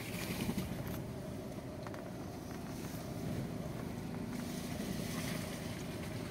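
Mahindra Thar engine idling steadily with a low, even hum, heard from inside the cabin.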